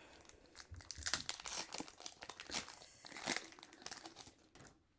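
Foil booster-pack wrapper crinkling and tearing as it is opened by hand, irregular crackles that fade out near the end.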